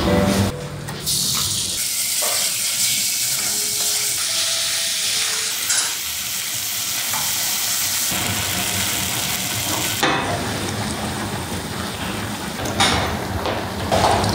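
Pork neck and kimchi sizzling in hot oil in a pot as they are stir-fried with gochujang, with a few scrapes and knocks of the utensil against the pot.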